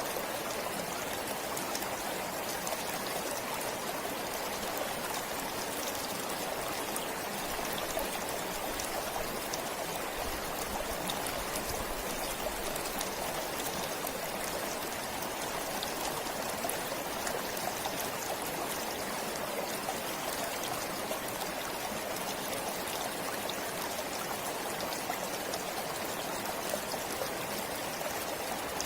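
A forest stream flowing steadily over rocks, a continuous rushing with small splashes and trickles.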